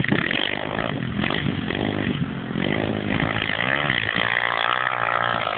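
Dirt bike engine revving, its pitch swinging up and down about midway and then holding steady near the end.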